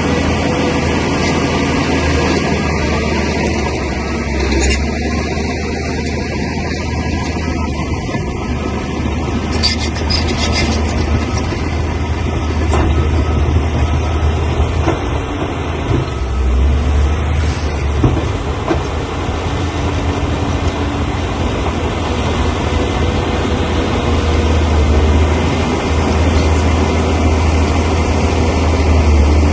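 Bulldozer's diesel engine running steadily with a strong low hum, with a few short knocks about ten seconds in and once more later.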